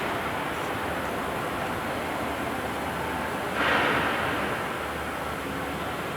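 Wood CNC router running with a steady machine noise. About three and a half seconds in, there is a brief louder swell, as the cutter bites harder into the wood.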